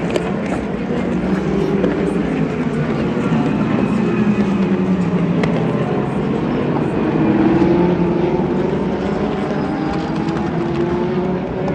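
Race car engines running at speed past the track, several cars overlapping. Their engine notes fall away in the first half, then new notes climb steadily near the end as more cars come through.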